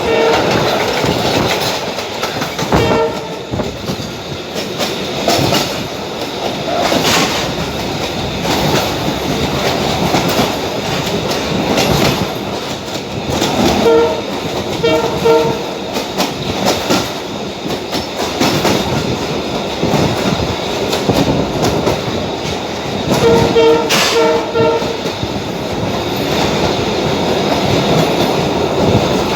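Passenger train running along the line, heard from aboard: a steady rumble with wheels clattering over rail joints. The horn sounds in short blasts several times: about three seconds in, around the middle, and again about three quarters of the way through.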